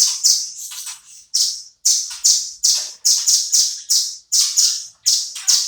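Velvet-fronted nuthatch calling in full voice: harsh, high-pitched chattering notes in quick bursts, two or three a second.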